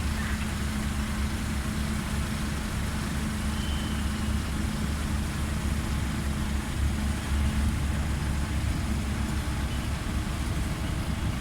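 Car ferry's engine running steadily: a constant low drone with a steady hum and an even rushing noise over it.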